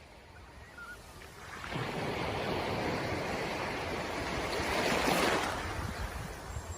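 Sea surf: a wave swells and washes in, loudest about five seconds in, then eases off.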